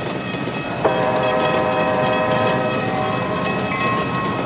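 Train horn sounding one steady chord from about a second in, held for about two seconds and trailing off near the end, over the running noise of a train on the rails.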